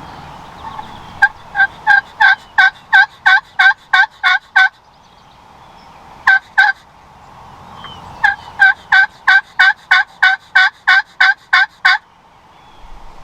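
Turkey call sounding hen yelps to draw in a tom. A run of about ten loud, evenly spaced yelps at about three a second, a short pair, then another run of about eleven.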